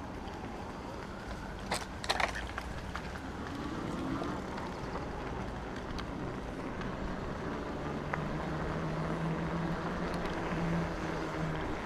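Steady noise of riding an e-bike: tyres and wind on the camera, with a few light clicks about two seconds in and a low hum late on.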